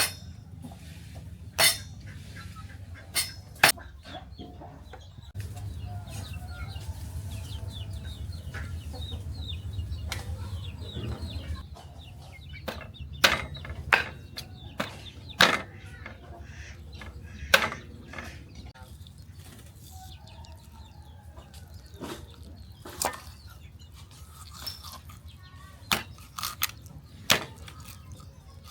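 Chickens clucking, with irregular sharp knocks every few seconds that are the loudest sounds. A low hum runs for several seconds in the middle.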